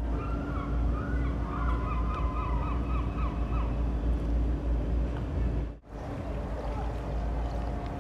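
A bird calls in a rapid series of about a dozen short notes, starting about half a second in and stopping near the middle, over a steady low rumble of the boat's running engine and wind.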